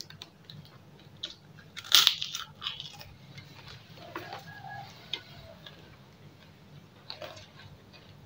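Crunching as a crisp cracker (kerupuk) is bitten and chewed close to the microphone, loudest in a cluster of crunches about two seconds in, with smaller crackles after.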